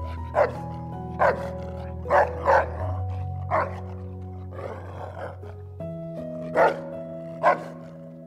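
A dog barking in short single barks, about seven of them at uneven intervals. They sound over gentle background music with long held notes.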